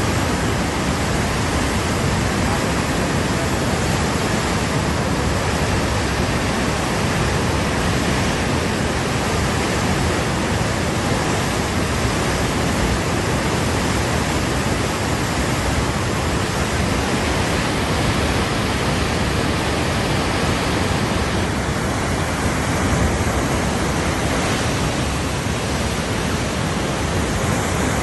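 Teesta River in flood: a steady, loud rush of fast, swollen water.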